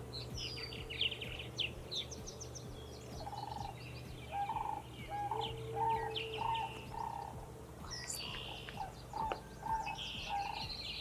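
Several birds calling: scattered high chirps and trills, with a repeated short, lower call about twice a second from about three seconds in.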